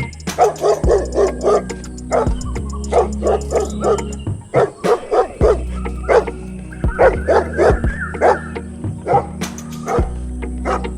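A dog barking and yapping in quick short yelps, several a second, over background music with a steady low bass.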